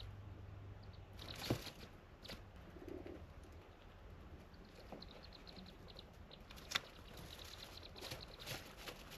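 Pet degu chirping in rapid trains of short, high-pitched 'pipipi' notes, a sign of excitement. Two sharp knocks, about a second and a half in and just before seven seconds, stand out above the chirps.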